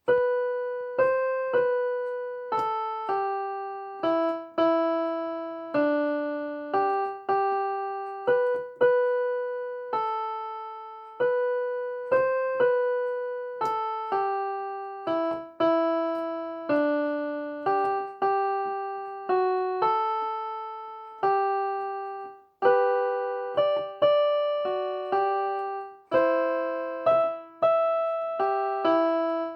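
A simple melody played one note at a time on a piano-type keyboard, each note struck and left to fade, at a slow, even pace with a brief break about two-thirds of the way through.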